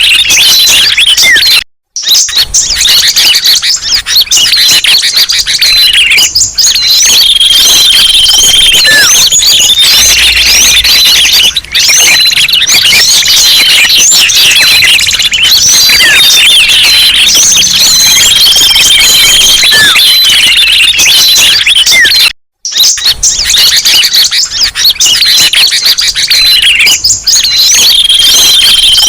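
A loud, dense chorus of many small songbirds chirping, twittering and whistling all at once, played as a bird-luring recording. Held whistled notes recur in it every twenty seconds or so. The sound cuts out for a split second about two seconds in and again near the end, where the loop restarts.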